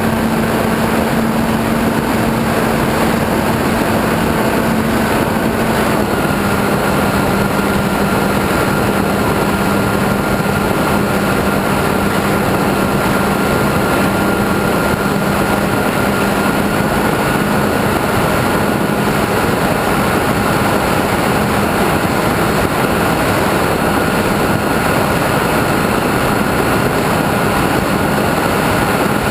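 RC airplane's motor and propeller running at steady cruise throttle, heard from onboard over a constant rush of wind. The drone's pitch drops slightly about six seconds in, then holds steady.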